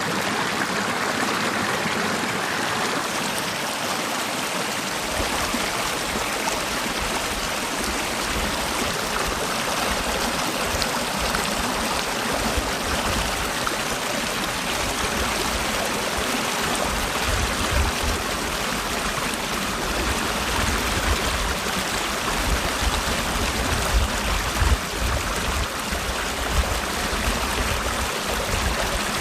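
Mountain stream flowing over rocks in a valley, a steady rushing and trickling of water. From about five seconds in, an uneven low rumble comes and goes beneath it.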